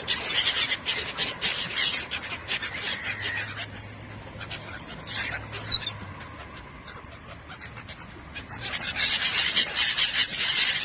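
A group of birds calling and scrabbling: many quick clicks and short squeaky calls. They are busiest at the start and again near the end, with a quieter spell in the middle.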